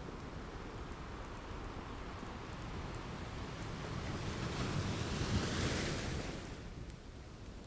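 Ocean surf: a steady low rush of waves, with one wave swelling up from about halfway, washing in loudest a little past two-thirds through and then fading. Faint small crackles of a wood fire sit over it.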